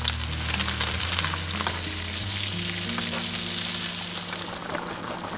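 Salmon fillets frying in hot oil and butter in a nonstick pan, a steady sizzle with small crackles.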